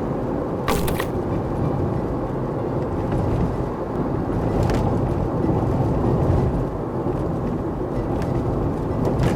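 Steady low rumbling outdoor noise that swells and fades, with a few brief sharp clicks.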